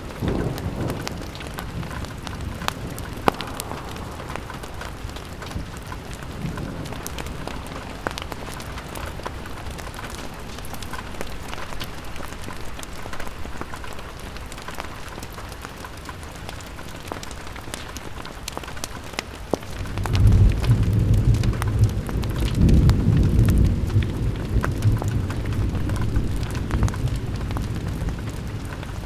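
Steady rain on a window with many sharp ticks and pops scattered through it. About two-thirds of the way through, a low rumble swells up and lingers.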